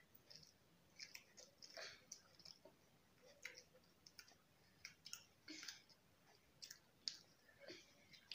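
Faint eating sounds: chewing, with many small irregular clicks and crackles as french fries and a toasted sandwich are eaten by hand.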